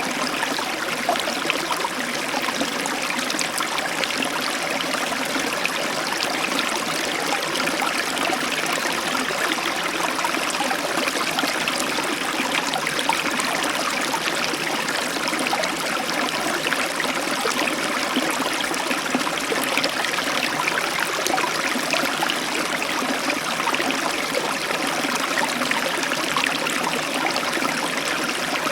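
Heavy tropical downpour heard through an open balcony door: a dense, steady rush of rain with no thunder and no rise or fall.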